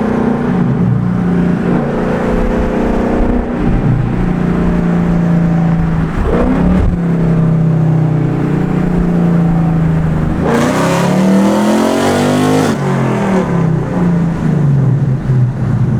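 A 2019 Ford Mustang GT's 5.0 V8 with a Flowmaster Outlaw cat-back exhaust and H-pipe, idling with one rev about ten seconds in that climbs and drops back to idle after a couple of seconds.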